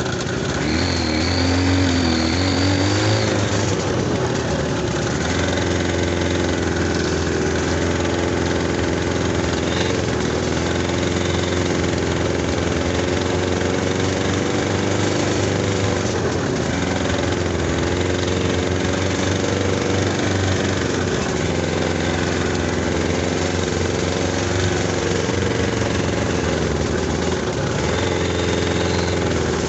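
Buran snowmobile's two-stroke twin engine running, its pitch rising and falling briefly about a second in, then holding steady with small dips.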